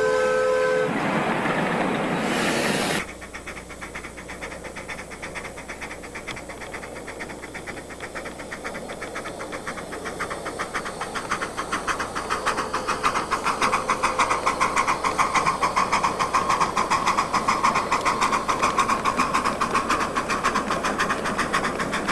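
A multi-note train whistle ends just after the start, followed by a loud hiss for about two seconds that stops abruptly. Then comes the fast, steady rhythmic running of a ride-on miniature train, growing louder from about ten seconds in as it draws near.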